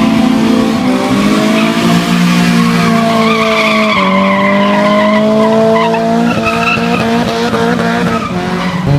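A car's tyres squealing on pavement without a break, as in a burnout or donuts, with the engine running hard under it. The squeal is several held tones that slowly waver in pitch, and it drops off abruptly at the very end.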